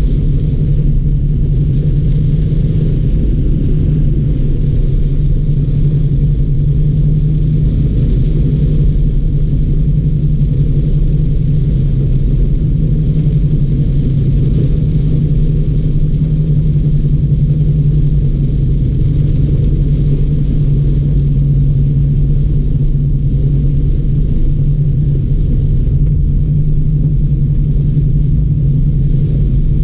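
Car driving in heavy rain: a steady low rumble of engine and road noise, with a faint hiss of rain over it.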